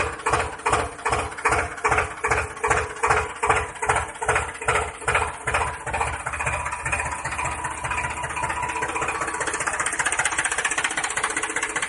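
Tractor engine chugging in slow, even beats, about three a second, then settling into a steadier, faster run about six seconds in.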